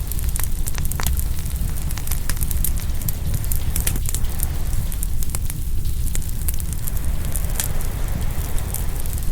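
Open bonfire crackling, with frequent irregular sharp pops and snaps over a steady low rumble.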